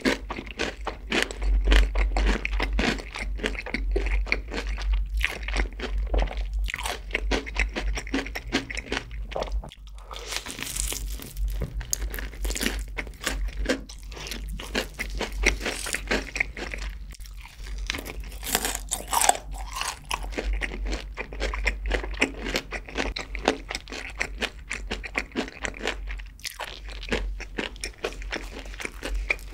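A person crunching and chewing fried chicken close to the microphone, a dense, continuous run of crisp bites and chews.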